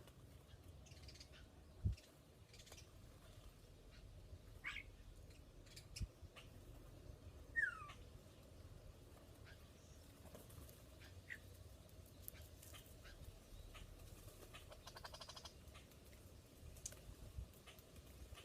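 Scattered bird chirps and calls at a feeder. These include a downward-sliding call about seven and a half seconds in and a quick rattling series near fifteen seconds, with a couple of soft low thumps.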